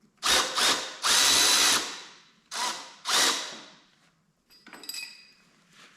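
Power tool, most likely an impact wrench, running in five bursts on a swivel socket to loosen a bolt, the third burst the longest. Faint metallic clicks follow near the end.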